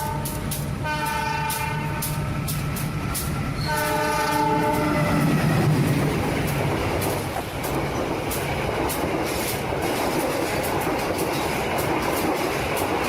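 Train horn sounding twice, a short blast about a second in and a longer one a few seconds later, over a steady running rumble with rhythmic clicking of wheels on track.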